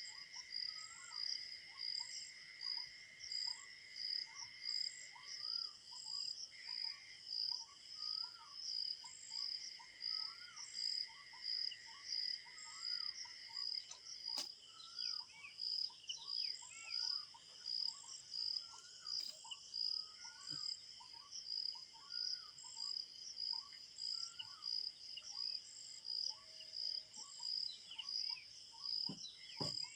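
Night-time ambience: crickets chirping in a steady rhythm, a little over one chirp a second, with a continuous high insect trill during parts of the first half. Many short, repeated bird call notes sound underneath.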